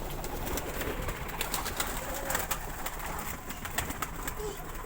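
Birds giving a couple of faint, short, low gliding calls amid frequent sharp clicks and scratching.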